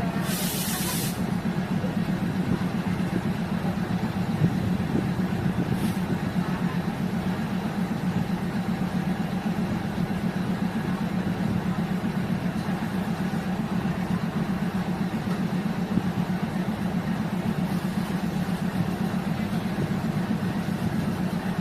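Diesel railcar engine running steadily with a low, evenly pulsing drone. A short hiss of air comes about half a second in, and a fainter one at about six seconds.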